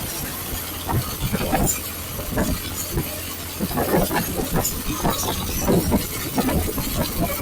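Motorcycle under way on the road: engine and wind noise on the rider's microphone, swelling in irregular gusts.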